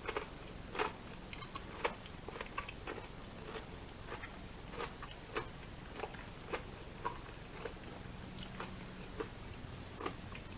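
Close-up chewing: soft, irregular mouth clicks and smacks, about one or two a second, over a faint steady hum.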